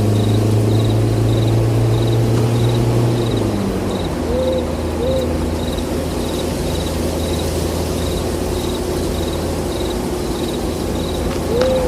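Night ambience sound effect: crickets chirping steadily, an owl hooting twice around the middle and twice more near the end, over a low steady hum that drops in pitch about three and a half seconds in.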